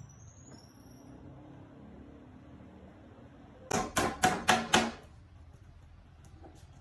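Five quick, sharp hammer blows in a row, about four a second, each with a short ring.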